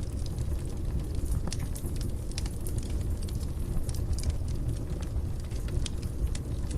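Wood fire burning in a fireplace: a steady low rumble of flames with frequent small, sharp crackles and pops of burning wood.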